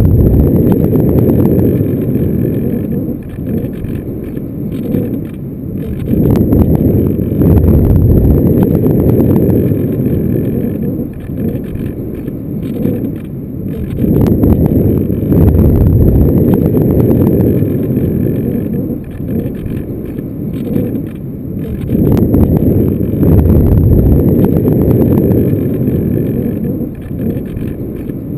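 Airflow buffeting the microphone of a GoPro carried on a Radian glider in flight: a loud, deep rushing that swells and eases every several seconds. There is no steady motor tone, which fits the glider soaring with its motor off.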